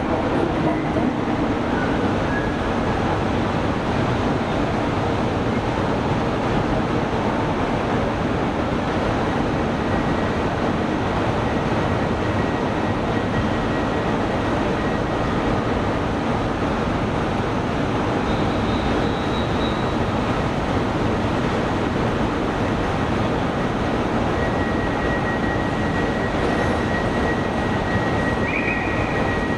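Steady running noise of a passenger train heard from inside the coach, an even rumble and hiss. A faint high whine shows briefly midway and again near the end.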